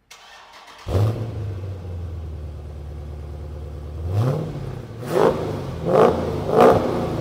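Dodge Challenger Scat Pack's 6.4-litre HEMI V8 starting up about a second in, heard through its twin rear exhausts, and settling to a steady idle. From about four seconds in it is revved in four short throttle blips, each rising and falling.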